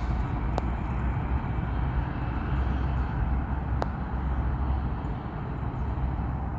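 Steady low outdoor rumble, with two faint sharp clicks, one just after the start and one a little past the middle.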